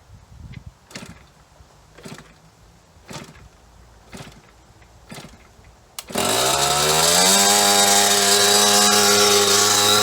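A 1998 KTM 50's single-cylinder two-stroke engine bursts into life about six seconds in, its pitch climbing quickly and then holding at a steady high speed. Before it fires there are a few light knocks, about one a second.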